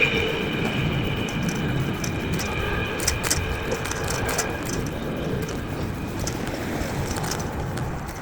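Steady street traffic noise heard from a moving bicycle, with a high ringing tone that fades out in the first couple of seconds and a few faint clicks about three seconds in.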